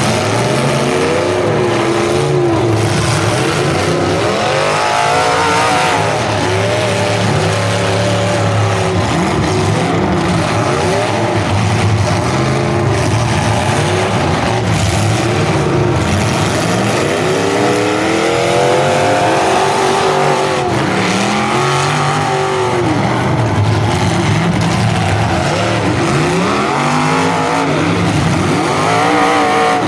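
Several full-size demolition derby cars running at once, their engines revving up and down over and over, the pitches rising and falling and overlapping.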